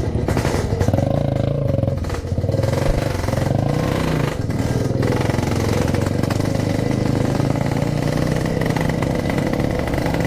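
Yamaha RX King 135cc single-cylinder two-stroke motorcycle engine running, its revs rising and falling over the first few seconds and then holding steadier.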